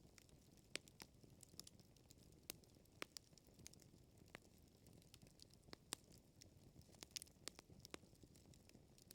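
Faint wood fire crackling: irregular sharp pops and snaps, several a second, over a low steady hiss of burning logs.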